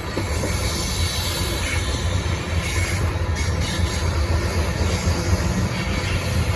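BNSF coal train rolling past: a steady low rumble from the train, with no let-up.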